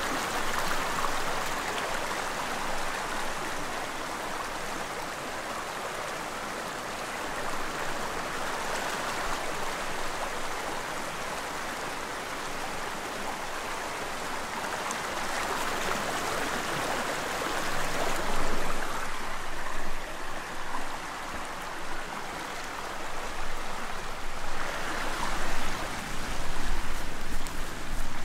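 Shallow stream of running water flowing steadily, a continuous rushing babble. In the last ten seconds louder, irregular sounds come through over the water.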